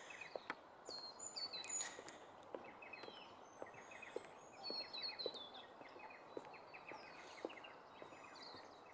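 Small birds chirping: many short, quick notes, several sliding downward, over faint outdoor background noise.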